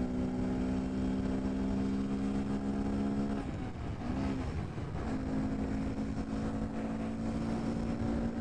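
2018 Honda Grom's 125 cc single-cylinder four-stroke engine held at wide-open throttle, droning at a steady pitch. The note breaks off for about a second and a half partway through, with one short blip, then comes back steady.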